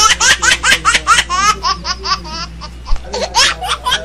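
High-pitched laughter, a rapid string of short 'ha' bursts at about five a second, with a brief pause a little after two seconds in before it resumes.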